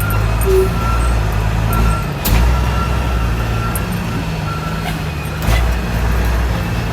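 Heavy truck's diesel engine running under way. The engine note breaks off briefly about two seconds in and again about five and a half seconds in, with a thin steady whine that comes and goes above it.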